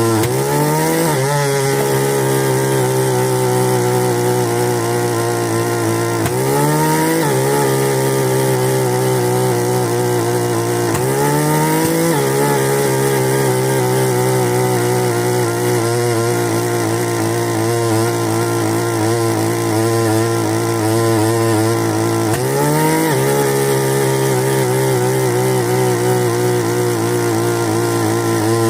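Bernard Moteurs W14 15 HP engine running steadily. Four times its speed briefly rises and then falls back to its running pitch: right at the start, around 6 seconds in, around 11 seconds, and around 22 seconds.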